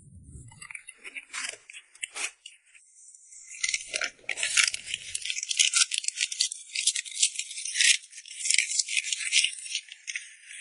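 Rattling of small hard pieces: a few scattered clinks, then from about three and a half seconds in a dense, rapid rattle of high clicks that keeps going.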